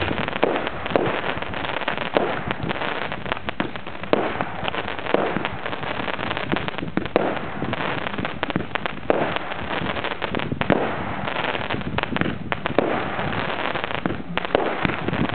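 Fireworks going off in a continuous rapid stream of bangs and crackles, many a second, without a pause.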